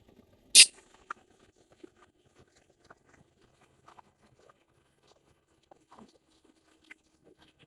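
Last cast with a spinning rod: one sharp swish about half a second in, followed by faint scattered clicks and ticks as the lure is retrieved.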